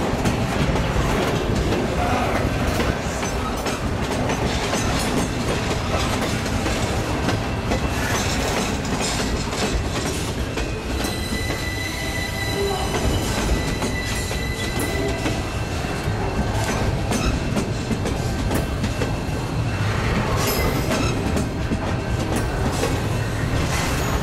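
Loaded double-stack intermodal well cars rolling along the track, wheels clicking over rail joints, with a steady high wheel squeal from about eleven to sixteen seconds in and a brief squeal again near the end.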